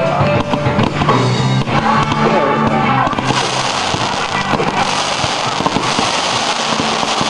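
Aerial fireworks going off with sharp pops over music playing. About three seconds in, a dense sustained crackling fills in, typical of crackling-effect shells.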